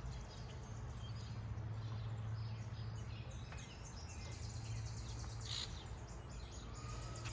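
Small birds chirping here and there over a steady low hum of background noise.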